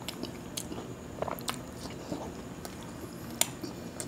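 A person chewing a mouthful of khichuri and fried food close to a lapel microphone: soft wet mouth sounds with scattered small clicks.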